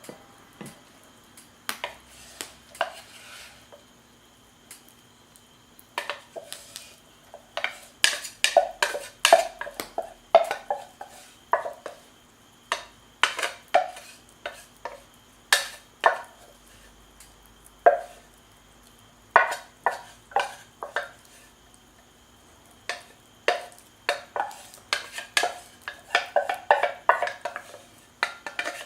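A utensil clinking and scraping against cookware in irregular bursts of sharp taps, each with a short ring.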